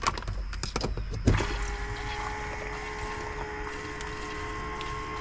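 A few clicks and knocks as a plug is handled, then about a second in a small electric bait-tank filtration pump switches on and runs with a steady hum of several fixed tones.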